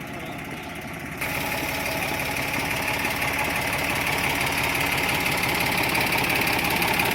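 Eicher 485 tractor's three-cylinder diesel engine running with a steady rapid chug. It gets suddenly louder about a second in and keeps growing slowly louder.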